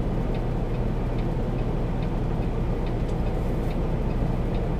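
Semi truck's diesel engine idling, heard from inside the cab as a steady low drone, with faint light ticks about twice a second.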